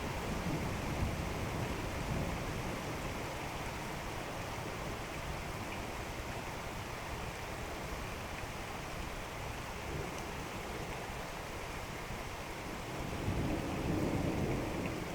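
Steady rain falling during a thunderstorm, with a low rumble of thunder that swells near the end.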